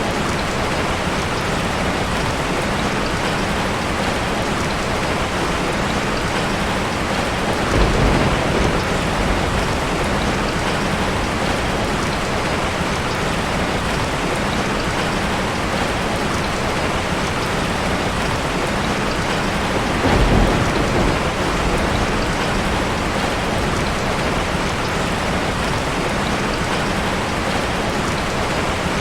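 Steady rain falling and pattering on a surface, an even hiss. Two brief low rumbles of thunder swell up over it, about a quarter of the way in and again about two-thirds in.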